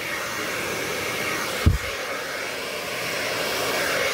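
Hand-held electric blower running steadily, blowing air across wet acrylic pour paint to push it around, with one brief low thump a little under two seconds in.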